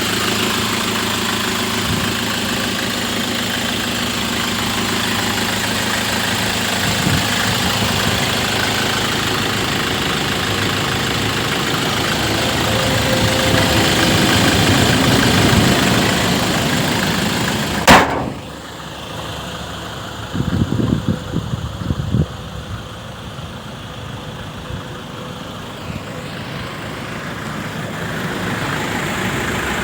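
Land Rover Defender 110's 2.2-litre four-cylinder turbodiesel running steadily, building a little louder for a few seconds midway. A sharp click about two-thirds through is followed by a quieter stretch with several thuds, then the steady running comes back louder near the end.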